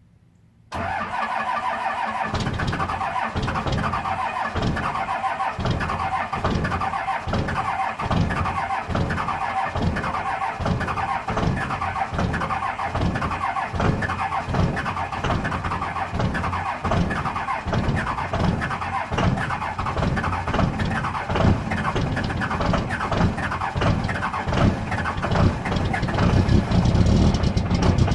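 Truck engine being cranked on a cold start: the starter whirs in abruptly and keeps turning the engine over for a long time, with heavy pulses about once a second as it fires roughly, growing louder near the end as it begins to catch. A hard, rough cold start.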